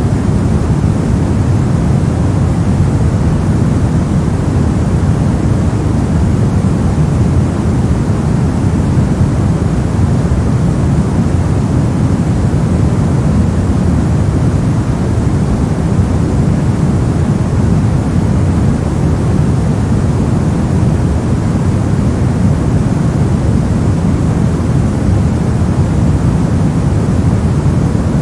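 Steady synthetic white noise for sleep, an unbroken even hiss with most of its weight in the low end, giving a deep rushing sound with no change in level.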